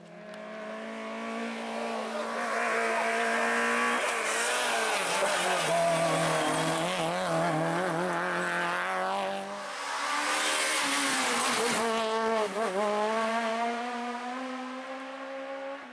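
Rally car engine revving hard at race pace, its pitch rising and falling through gear changes. It grows louder over the first few seconds, dips briefly about ten seconds in, then eases off near the end.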